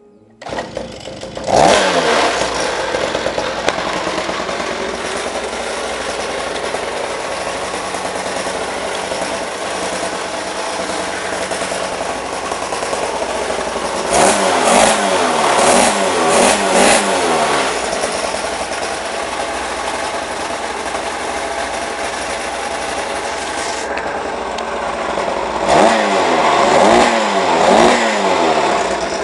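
49cc two-stroke pocket bike engine starting on the first pull about half a second in, then running steadily. It is revved up and down a few times about halfway through and again near the end.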